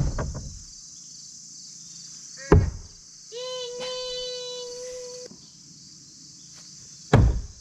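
Thrown blades striking a wooden target three times, each a sharp loud thud: at the start, about two and a half seconds in, and near the end. Crickets chirr steadily throughout. Between the second and third strikes there is a held, pitched call lasting about two seconds.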